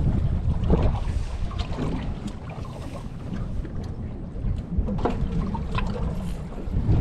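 Wind rumbling on the microphone out on open water, with a few scattered light knocks and clicks.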